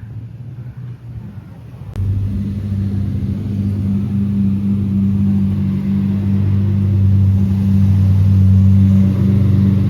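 A car engine starts up loud about two seconds in and runs with a steady, deep drone that slowly grows louder.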